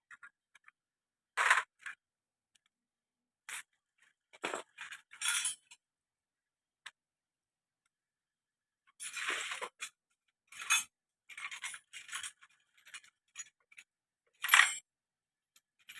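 Metal hand tools and small engine parts clinking and scraping during a motorcycle engine teardown, in short separate bursts with pauses between them; the loudest comes near the end.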